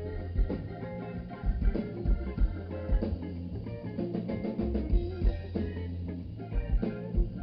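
Live band playing an instrumental passage: drum kit keeping a steady beat under a bass line and guitar.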